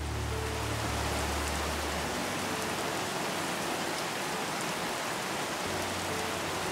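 Steady rain falling, an even, constant hiss of drops with no change in strength.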